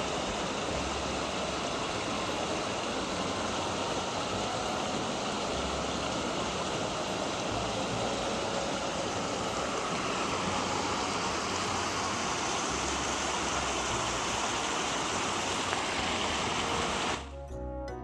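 Steady rush of flowing water in a small mountain stream. The rush cuts off abruptly near the end as music begins.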